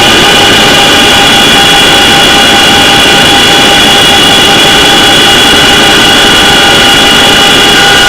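CH-47 Chinook helicopter's twin turboshaft engines and rotors running steadily and loud: a high turbine whine of several steady tones over a heavy rush of rotor and engine noise.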